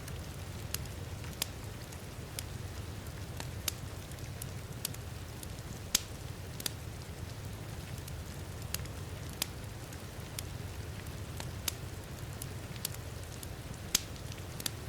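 Wood fire crackling, with irregular sharp pops over a steady low rumble; the loudest pops come about six seconds in and near the end. Steady rain hisses beneath.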